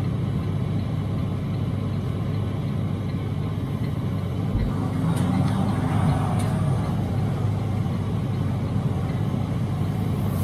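Steady low rumble of a semi truck's diesel engine and tyres heard from inside the cab while driving, growing slightly louder in the middle, with a few faint clicks.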